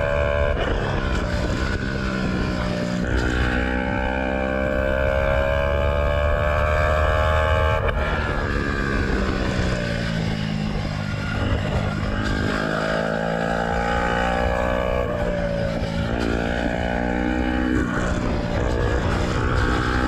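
Yamaha YZF-R125's single-cylinder four-stroke engine being ridden hard through the gears, its exhaust running without the dB killer. The pitch climbs and drops back several times as it shifts.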